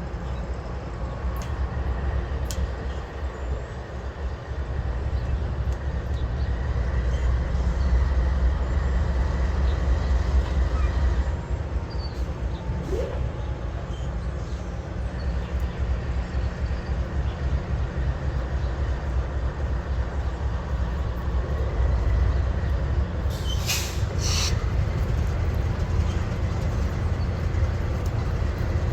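A train rolling by: a steady low rumble of wheels on rail, with a faint steady high tone through much of it and a few sharp clicks about 24 seconds in.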